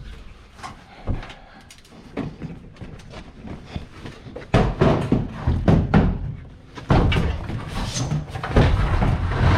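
Thuds and metal bangs of a washing machine being handled and loaded onto a truck: a few light knocks at first, then from about halfway a run of loud thumps and clatter.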